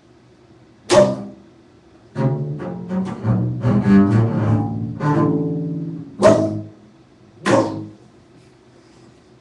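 Solo low bowed string instrument playing contemporary music: a sharp accented note about a second in, a busy run of notes from about two to six seconds, then two more sharp accented notes, each ringing out briefly before the room falls quiet.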